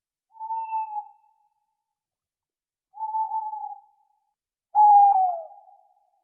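Three clear hooting calls from an animal, each under a second long, with silence between them. The third call, near the end, is the loudest and falls in pitch.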